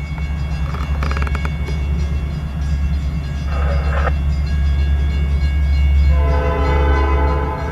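Diesel locomotive running with a steady deep engine drone, a short burst of hiss about three and a half seconds in, then its air horn sounding for about a second and a half near the end.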